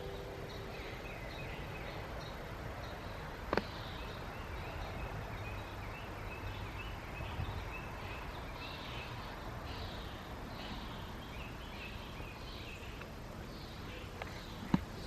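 Outdoor garden ambience with a small bird chirping in a rapid series of short, high notes. Two sharp clicks stand out, one a few seconds in and one near the end.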